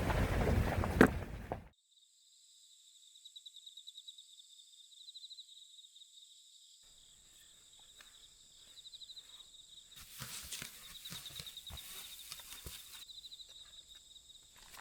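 Insects trilling steadily in a high, pulsing tone, with soft footsteps and rustling on a trail that start about halfway through and get busier near the end. At the very start, a loud rushing noise cuts off suddenly.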